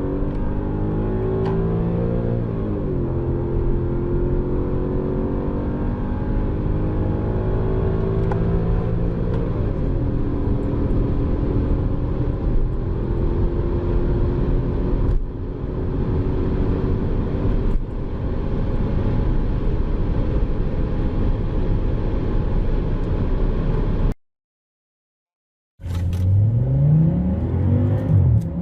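Audi RS6 C5's 4.2 twin-turbo V8 accelerating at full throttle. The engine note climbs in each gear and drops back at upshifts about 2.5 and 9.5 seconds in, then pulls on steadily through the higher gears. After a sudden cut and a second or so of silence, an Audi RS6 C6's 5.0 twin-turbo V10 starts revving up hard through the low gears.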